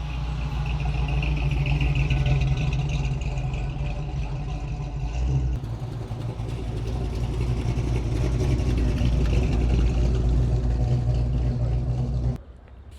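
A car engine running close by: a steady low rumble that swells and eases a little, dips briefly about halfway, then cuts off abruptly near the end.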